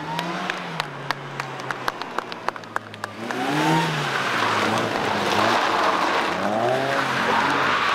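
Mercedes-Benz SLK roadster's engine revving up and easing off as the car drives through a tight coned course, rising in pitch twice. Sharp ticks sound over it at first, and about three seconds in a loud, steady rushing noise joins.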